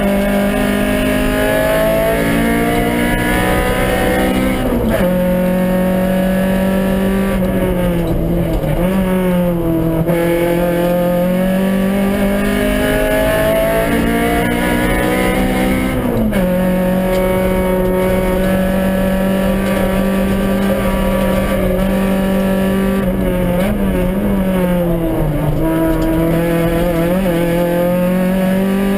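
Honda Civic rally car's four-cylinder engine running hard under load, heard from inside the cabin. Its pitch climbs steadily, then drops sharply several times, most clearly about five and sixteen seconds in, before climbing again.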